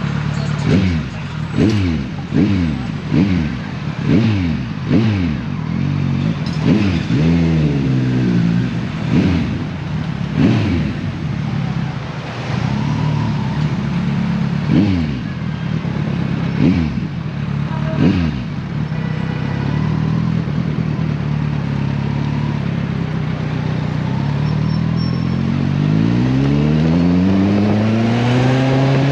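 Kawasaki Versys 1000's inline-four engine revving in quick repeated throttle blips, about one every second, then running steadily before a long rising rev near the end as it pulls away.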